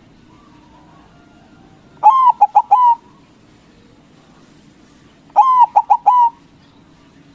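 White zebra dove cooing: two phrases a few seconds apart, each a drawn-out first note followed by a few quick, short notes.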